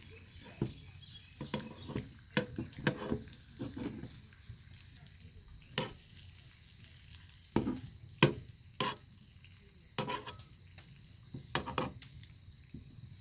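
Bacon frying in the pan over an open fire: a steady high hiss of sizzling fat broken by many irregular sharp pops and crackles.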